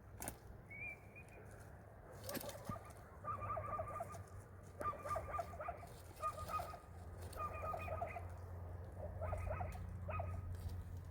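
A bird calling over and over in short phrases of about half a second each, with a few sharp knocks near the start.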